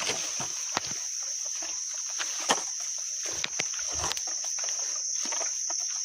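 Steady, high-pitched drone of insects, with scattered sharp clicks and crunches over it; the loudest crunch comes about two and a half seconds in.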